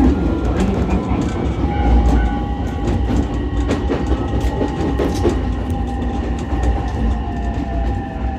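Ichibata Electric Railway 7000-series electric railcar running along the line, its wheels clicking over the rail joints. A steady running noise carries a motor whine that falls in pitch near the end.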